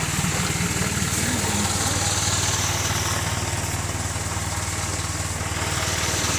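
Truck engine running steadily with a low, even hum and a slight waver in pitch in the first second or so.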